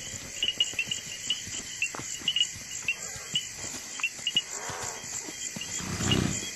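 Crickets chirping at night, short high chirps repeating in an irregular rhythm, with scattered soft taps and a brief louder low sound about six seconds in.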